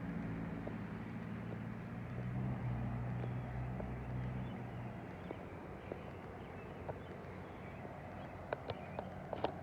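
Outdoor ambience with a low engine-like hum that fades out about halfway through, over a steady background hiss, and a few sharp clicks near the end.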